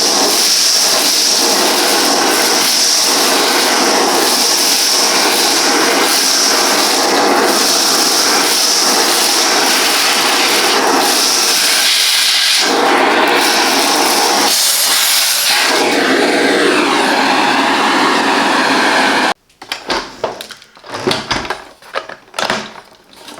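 Bosch BGC05AAA2 bagless canister vacuum cleaner running at full suction, its airflow rush and whine rising and dipping as the nozzle is worked over the floor. The motor cuts off suddenly near the end, followed by a few plastic clicks and knocks.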